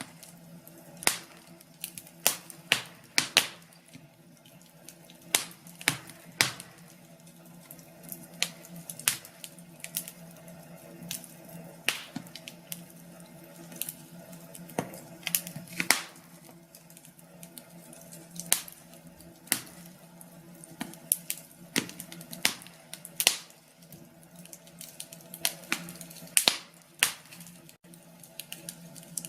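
Wood fire in a fireplace crackling, with irregular sharp pops and snaps a few times a second, over a faint steady low hum.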